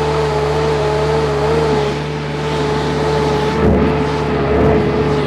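Compact stand-on skid steer's small diesel engine running steadily under a working load, with a constant whine over the engine note.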